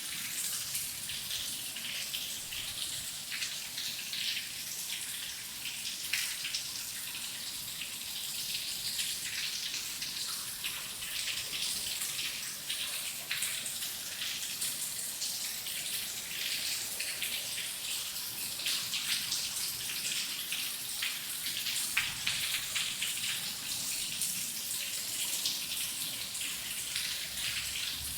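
Steady rain falling, with many individual drops pattering on a hard surface.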